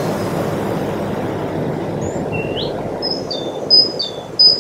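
Birds chirping in short two-note calls, with one rising call about two seconds in, over a steady low noise bed that fades slightly near the end.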